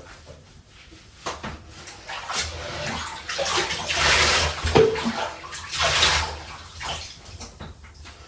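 Water splashing and pouring in a bathtub as a pet is bathed, coming in irregular surges that are loudest in the middle.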